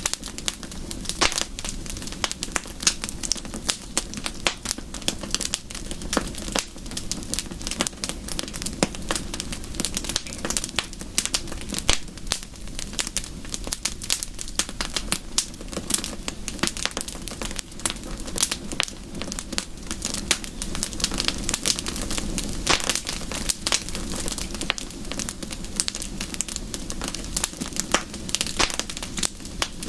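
Wood fire crackling: a dense run of irregular sharp pops and snaps over a low steady rumble, with soft rain in the background.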